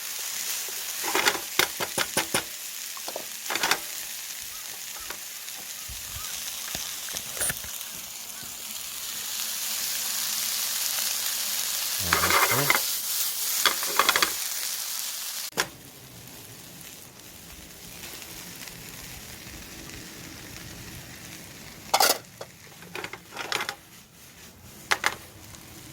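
Onions and peppers sizzling in a hot pan as they are sautéed, with a utensil clacking and scraping against the pan in short spells of stirring. About halfway through the sizzle drops suddenly to a quieter level.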